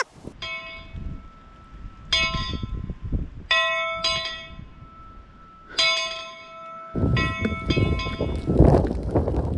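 A small metal bell struck several times at irregular intervals, each strike ringing out and dying away. From about seven seconds in, wind rushing over the microphone joins it.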